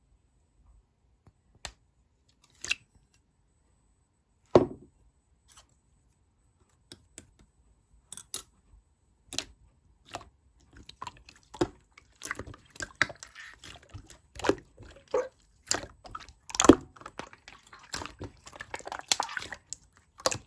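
Slime being handled and pressed by hand: sparse sticky pops and clicks at first, then from about eleven seconds in a busier run of wet squishing and crackling.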